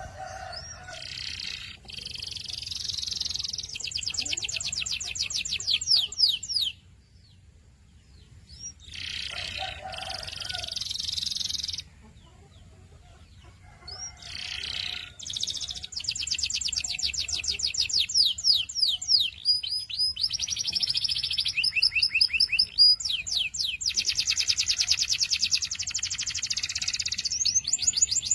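Canary singing: phrases of rapidly repeated high notes and fast trills, with brief pauses about seven and twelve seconds in, then unbroken song from about fourteen seconds on.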